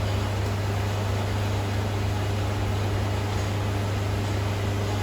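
Steady low hum with an even hiss of a running train.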